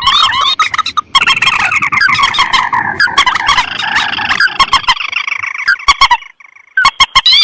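Bird-lure playback of paddy-field rail and crake calls (mandar and tikusan): dense, rapidly repeated calls that thin to separate short notes after about four and a half seconds, break off briefly, then start again near the end.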